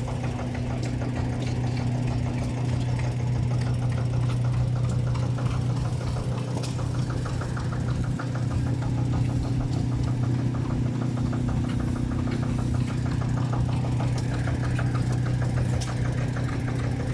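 An engine idling steadily with a low, even hum and a fast, regular beat; nothing changes in pitch or speed.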